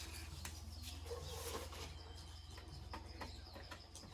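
Faint bird calls over a steady low hum, with a few light clicks.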